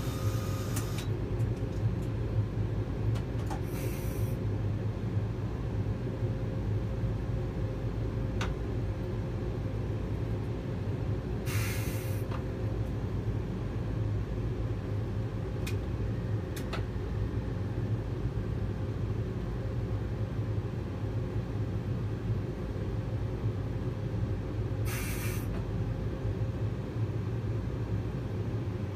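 Eurostar high-speed train heard from the driver's cab while running, a steady low rumble with a constant hum. Short hisses come every several seconds, and there are a few sharp clicks.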